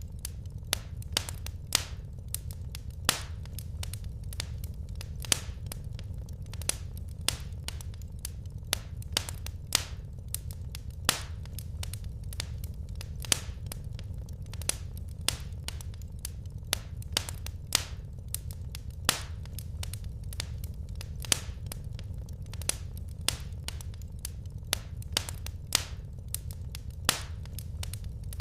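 Wood fire crackling: irregular sharp snaps and pops, several a second with some louder ones, over a steady low rumble of the flames.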